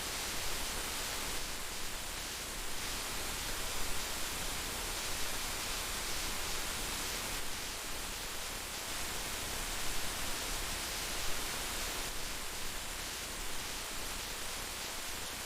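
Heavy rain falling steadily, a dense even hiss with small fluctuations in intensity.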